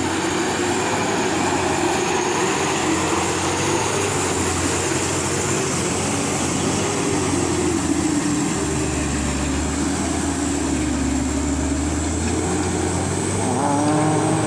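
Truck's diesel engine running under load while driving on a rough track, its pitch wandering slightly up and down. Near the end it revs up briefly.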